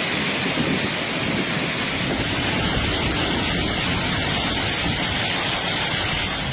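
Heavy storm rain pouring steadily, a dense rushing hiss.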